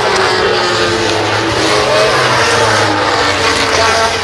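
800 cc four-stroke MotoGP racing motorcycles running at high revs on the circuit, their engine pitch rising and falling through gear changes and as they pass.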